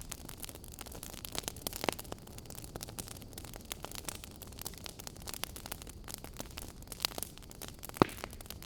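Wood fire crackling: a steady low hiss with frequent small pops, and a sharper, louder pop near the end.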